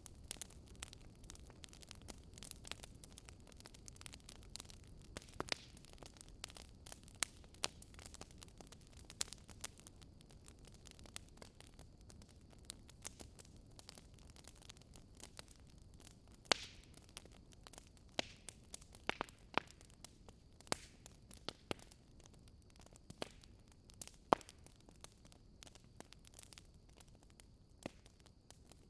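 Wood fire burning in a fireplace, crackling and popping at irregular moments over a faint steady hiss, with a few louder pops scattered through.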